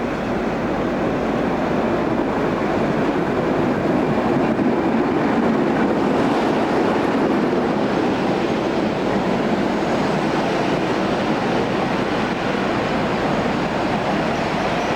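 Train running on the rails: a steady rumble that swells a little midway.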